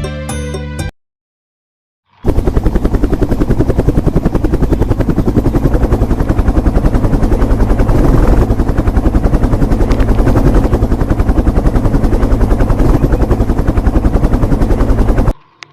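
Helicopter rotor chopping in a rapid, steady beat. It starts about two seconds in, after a short stretch of music and a pause, and cuts off shortly before the end.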